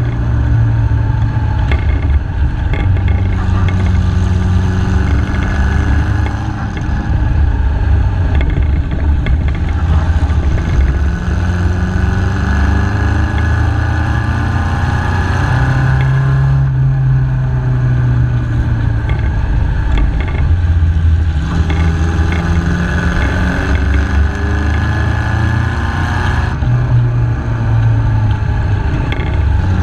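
MG KY Special's engine heard from on board, its note rising under acceleration and then dropping off sharply, several times over.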